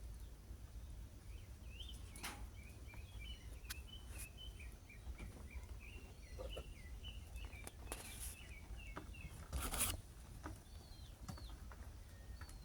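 Small birds chirping steadily in quick short notes, with a few brief knocks. The loudest knock comes about ten seconds in.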